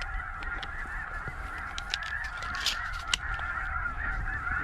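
A large flock of snow geese calling: a dense, continuous chorus of many overlapping high-pitched honks.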